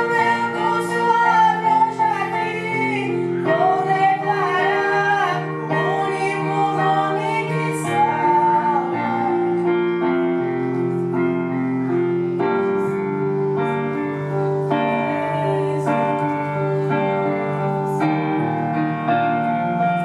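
A woman singing a gospel song with keyboard accompaniment. Her voice drops out about halfway through and the accompaniment carries on alone with held chords.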